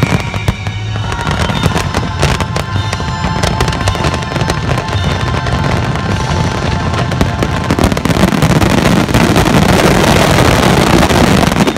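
Fireworks display: rapid aerial shell bangs and crackling over the show's music. From about eight seconds in the bursts thicken into a dense, louder barrage of bangs and crackle.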